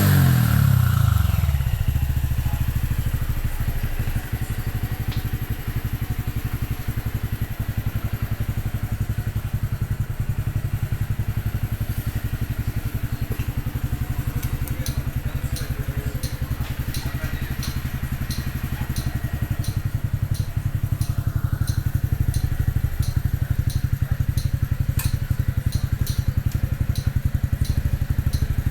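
Honda Cross Cub 110's single-cylinder four-stroke engine, through an aftermarket Yoshimura exhaust, dropping back from a rev to a steady idle. From about halfway a light regular ticking joins it.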